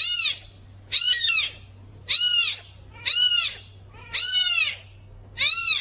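A kitten mewing over and over: six high-pitched cries about a second apart, each rising and then falling in pitch.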